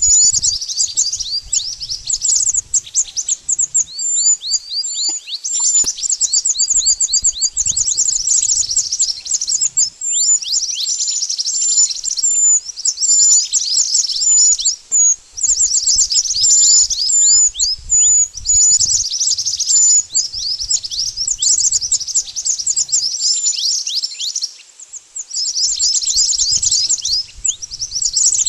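Mantenan bird song: rapid runs of sharp, high chirps, repeated in phrases of a few seconds with brief pauses, as used in recordings for luring birds. A faint low rumble sits under some phrases.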